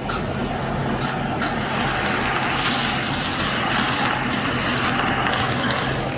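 A motor vehicle running close by, a steady low engine hum under a broad hiss, swelling at the start and easing off near the end.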